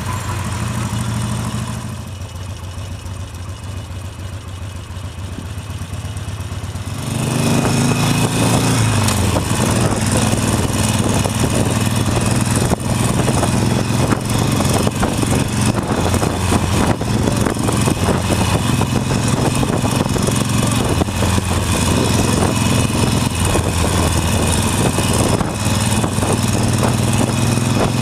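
Motorcycle engine idling, heard through a microphone stuffed in the rider's helmet liner. About seven seconds in it gets much louder as the bike moves off, the engine pitch sliding, and a steady rush of wind over the microphone joins the engine for the rest.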